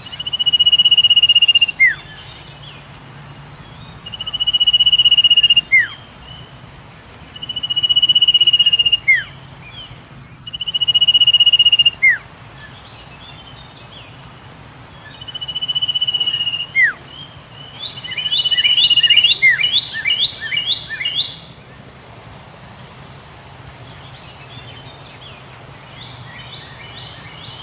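A bird singing: a long, steady, high whistle ending in a quick downward slur, repeated six times about every three to four seconds, then a fast run of short rising notes. A steady low hum lies underneath.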